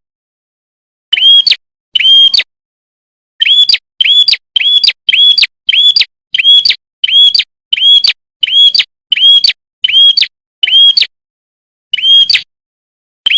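Prenjak kepala merah songbird giving a long series of identical short, loud chirps, each rising and falling in pitch, about two a second through the middle of the stretch with a few longer pauses.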